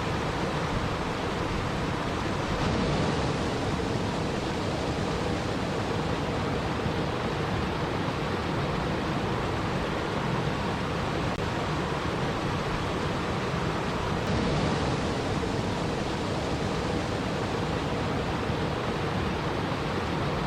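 Steady rushing water noise for relaxation, even and unbroken, swelling slightly twice.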